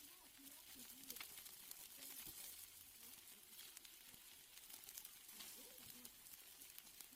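Steaks sizzling on a grill: a faint, steady hiss with scattered small crackles.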